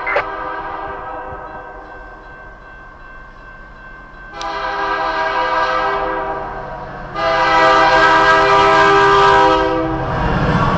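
Train horn sounding in long blasts: one dying away at the start, another starting about four seconds in, and a louder one about seven seconds in that stops shortly before the end.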